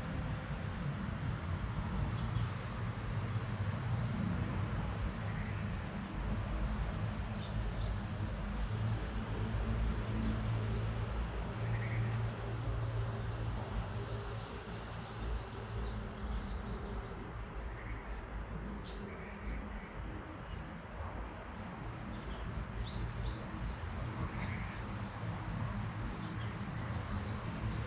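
Insects buzzing in one steady high tone, with a few short faint bird chirps scattered through and a low rumble underneath.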